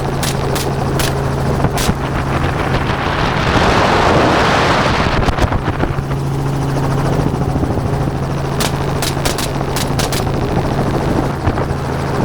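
Helicopter running steadily in flight, with a constant low hum and a swell of rushing noise about four seconds in. A scattering of short sharp clicks comes near the start and again in the second half.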